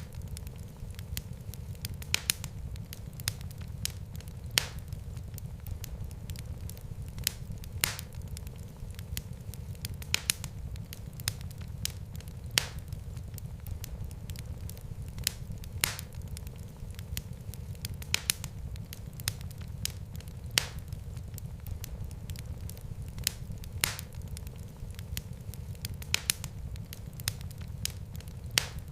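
Fireplace fire crackling: irregular sharp pops, the louder ones every second or two and fainter ones in between, over a steady low rumble of the flames.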